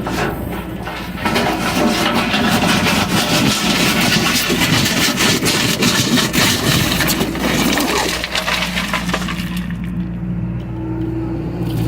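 John Deere excavator's diesel engine running steadily, with a long stretch of crunching and cracking, typical of the bucket digging and scraping through dirt and stone, from about a second in until about eight seconds in.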